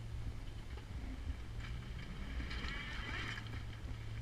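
LS V8 engine of a Jeep TJ running low and steady at crawling speed, with a brief high-pitched, wavering squeal about two and a half seconds in.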